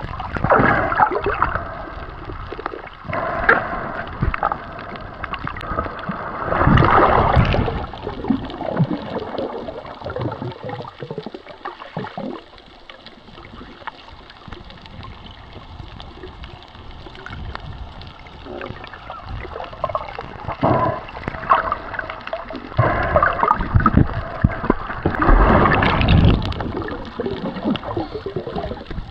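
Seawater sloshing and gurgling while snorkelling, in uneven surges, louder about seven seconds in and again near the end.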